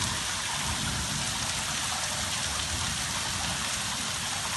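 Rain falling steadily in a storm, with rainwater running down the street.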